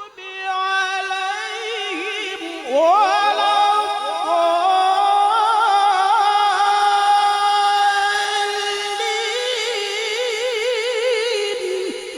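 A male qari's solo voice chanting Quran recitation, holding long ornamented notes with a quick wavering vibrato. The pitch sweeps upward about two and a half seconds in, and the voice eases off near the end.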